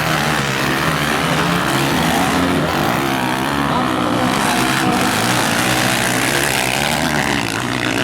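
Several motocross motorcycle engines running at once, revving up and down as the bikes race round the track.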